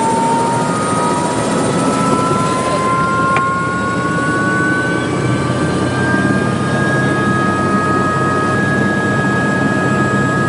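Helicopter running loudly and steadily, with a whine slowly rising in pitch.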